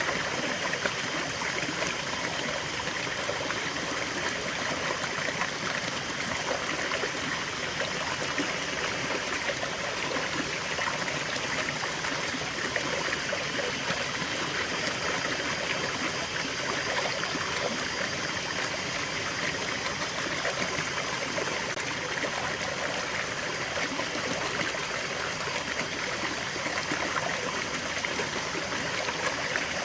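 A small stream running and trickling over stones, a steady splashing murmur with no breaks.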